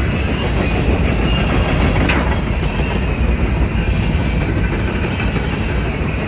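Grain train's covered hopper cars rolling past on the rails, a steady rumble of wheels on track with a brief sharp screech about two seconds in.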